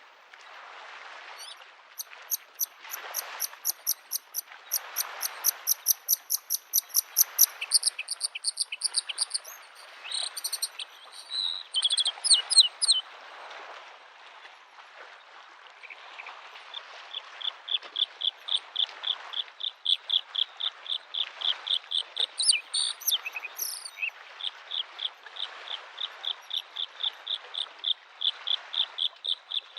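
Bluethroat singing in series of rapid, repeated high notes: first a very high sputtering run, then a long even train of about three to four notes a second. Underneath, small lake waves lap the shore, swelling and fading.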